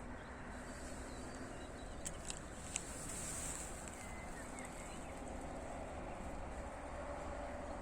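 Steady outdoor background noise with a few sharp clicks about two to three seconds in and a faint short chirp a little later.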